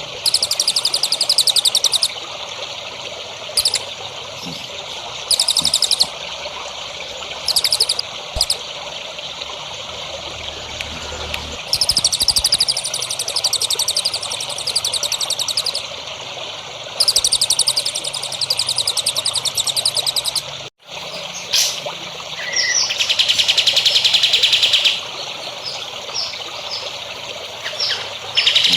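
A small songbird sings repeated high-pitched, very fast trills, each about two seconds long, over a steady trickle of running water. About two-thirds through the sound cuts out for a moment, then a longer, slightly lower trill follows.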